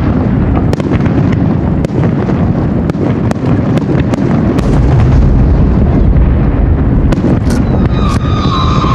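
Fireworks display going off in a dense barrage: a continuous deep booming of shell bursts overlaid with many sharp cracks and pops. Near the end a steady high-pitched tone comes in over the booming.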